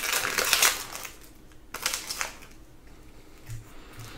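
Crinkling of a trading-card pack wrapper and the rustle of cards being handled, loudest in the first second, then a few softer rustles.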